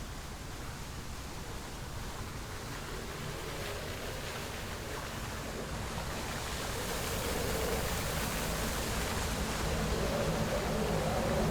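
Steady rush of falling water from a waterfall, growing louder and brighter past the middle.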